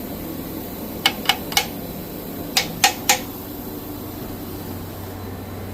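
Two quick runs of three sharp clicks or taps, about a second apart, over a steady low mechanical hum.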